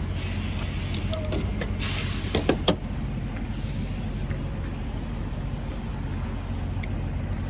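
Diesel truck engine idling with a steady low hum, with a few brief clicks and rattles about one to three seconds in.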